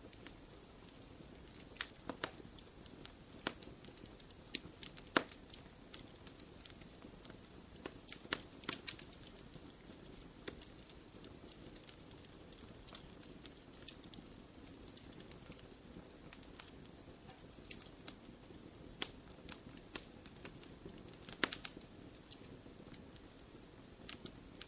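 Fire burning in a fireplace, crackling with irregular sharp pops and snaps over a soft steady rush.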